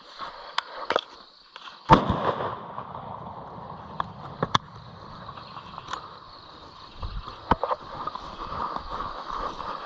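A steady high-pitched night insect chorus, broken by a scatter of sharp knocks and clicks. The loudest is a heavy thump about two seconds in.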